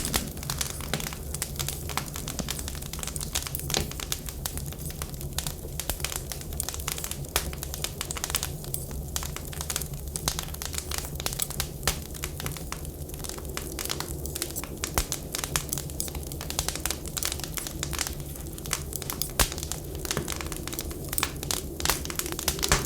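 Wood fire crackling: a dense run of irregular small snaps and pops over a steady low rumble.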